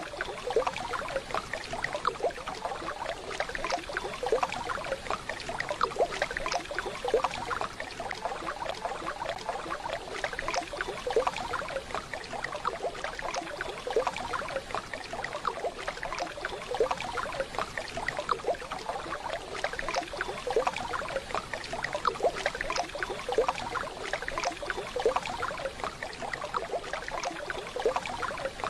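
Waterfall: water falling and splashing steadily, with a dense patter of small splashes and trickles.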